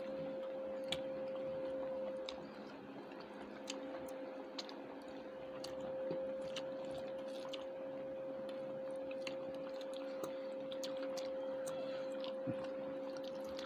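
Close-up eating sounds: chewing and small wet mouth clicks from people eating rice and mutton curry, scattered irregularly, over a steady faint hum.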